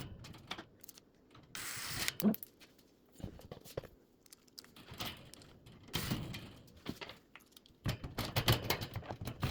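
Handling noise from reassembling a metal box fan: scattered clicks, taps and rattles of small screws and metal parts being fitted, with a short hiss about two seconds in and a busier run of clicks and knocks near the end.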